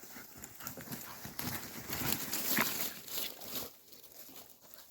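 A golden retriever trotting up while dragging a large leafy branch, the branch rustling and scraping along the ground with the patter of its paws, loudest two to three seconds in.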